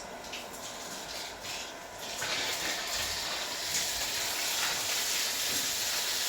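Water starts running with a steady hiss about two seconds in, after a quieter stretch with faint clicks.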